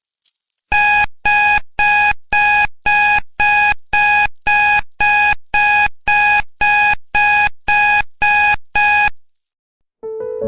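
Alarm timer beeping: about fifteen evenly spaced electronic beeps, roughly two a second, each fading slightly, marking the end of the timed study session. Soft piano music starts at the very end.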